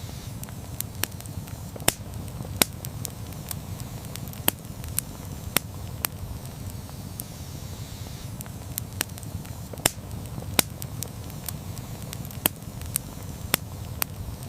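Wood campfire crackling: irregular sharp pops and snaps, about one or two a second, over a steady low rumble.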